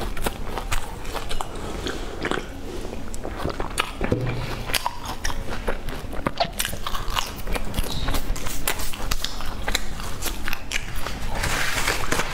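Close-miked biting and chewing of crispy fried food, with many small sharp crunches one after another.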